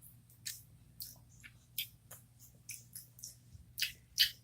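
Close-up chewing of small sweet-and-sour gummy bears: irregular soft, wet mouth clicks and smacks, the loudest near the end.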